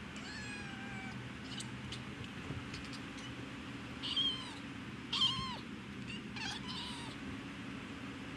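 Domestic cat making short, high chirping calls and clicking noises, the two loudest about four and five seconds in.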